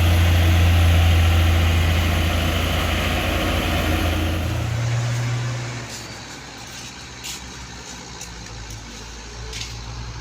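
Heavy diesel truck engine running hard as the truck tries to pull free of the mud. Its loud steady drone eases off about five seconds in to a quieter idle, with a few short sharp clicks near the end.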